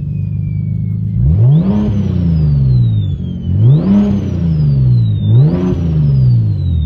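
Turbocharged car engine revved three times from idle: each time the engine climbs quickly and falls back more slowly. A high turbo whistle rises with each rev and winds down as the revs drop.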